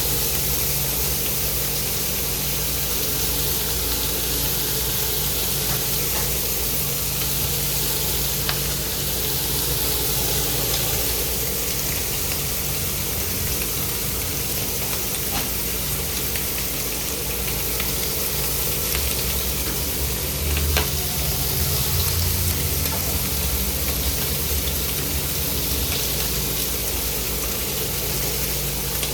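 Food sizzling steadily as it fries on a hot cooking surface, over a steady low hum, with a few faint light clicks.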